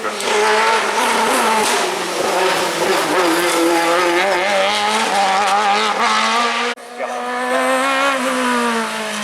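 Competition car engine running hard at high revs, its pitch rising and falling as it is worked up and down the rev range. The sound drops out abruptly for a moment near the end, then the engine picks up again.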